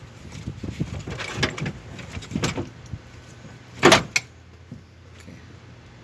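A string of light knocks and clatter, then one loud slam about four seconds in, followed closely by a smaller knock.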